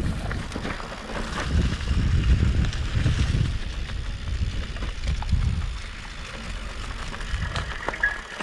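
Wind buffeting the microphone in uneven gusts while a bicycle rides over a rough dirt forest track, with scattered light clicks and rattles.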